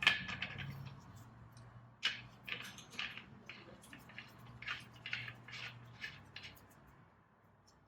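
Light, scattered clicks and taps of metal parts and hand tools being handled, over a faint low hum that stops about six seconds in.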